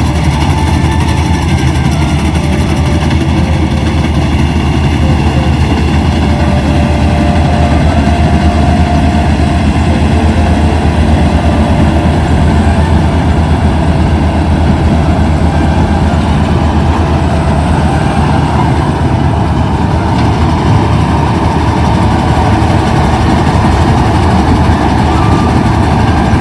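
Kubota combine harvester's diesel engine running steadily with a heavy, low drone.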